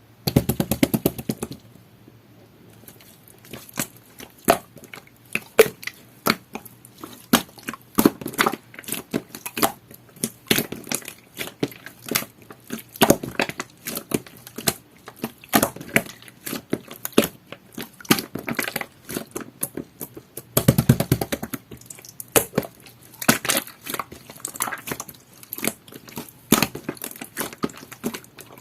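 Jelly-textured slime being squeezed and poked by hand, giving a running series of sharp clicky pops and crackles. Dense bursts of rapid clicks come right at the start and again about two-thirds of the way through.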